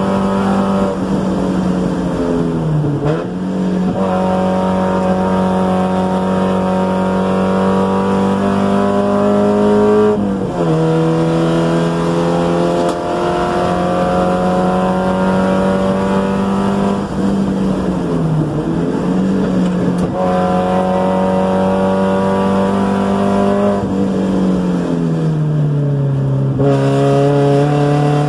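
1990 NA Spec Miata's 1.6-litre four-cylinder engine heard from inside the cabin, running hard at high revs. Its pitch dips briefly a few times and falls over a couple of seconds near the end as the car brakes hard for a corner.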